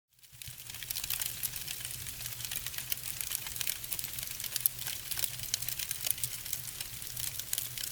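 Dense, irregular crackling made of many small rapid clicks over a low steady hum, fading in right after a cut.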